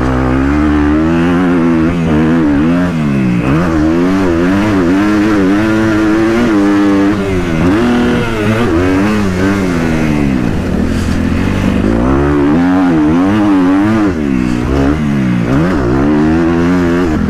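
Motocross dirt bike engine running hard, its pitch climbing and dropping over and over as the throttle is opened and shut around the track.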